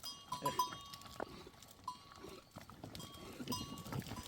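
Bells on a herd of goats clinking and ringing in short, irregular strikes as the animals move about.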